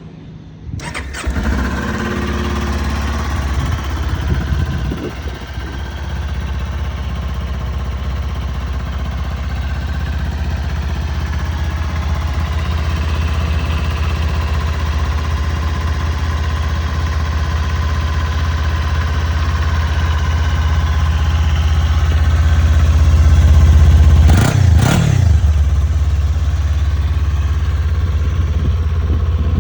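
Kawasaki Ninja 400's parallel-twin engine starts about a second in and settles into a steady idle. A few seconds before the end there is one quick blip of the throttle, revving up and falling straight back to idle.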